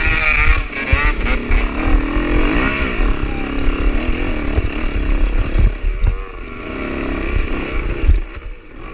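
Dirt bike engines revving up and down in repeated bursts as a rider fights up a slippery, muddy hard-enduro climb, with low knocks and clatter; the revving sounds like chainsaws.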